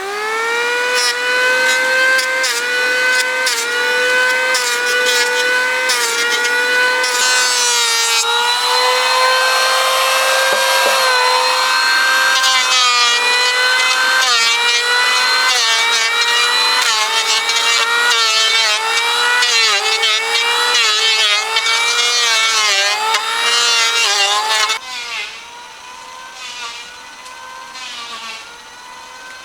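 Electric power tool spinning up and cutting wood, a steady high whine whose pitch dips again and again as it bites under load, with a scratchy rasp of wood being cut; it stops about 25 seconds in.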